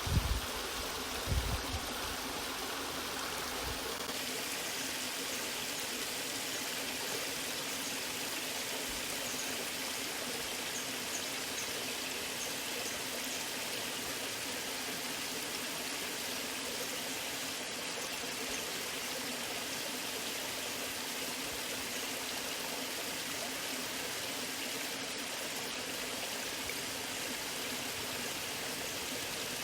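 Waterfall: steady, unbroken rushing of falling water. About a second and a half in, a brief low rumble or thump rises above it.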